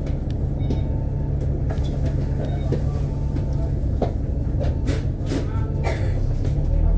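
Inside an Alexander Dennis Enviro500 double-decker bus on the move: a steady low rumble of engine and road, with scattered short rattles and squeaks from the cabin fittings.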